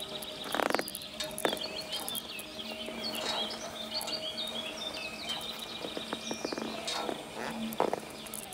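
Songbirds twittering in quick high chirps, busiest in the middle, over a steady drone of low held tones, with a few short knocks.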